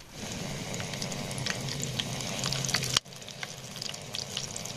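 Green chillies frying in hot oil in a small pan, sizzling with scattered sharp pops. The sizzle drops suddenly about three seconds in, then goes on more quietly.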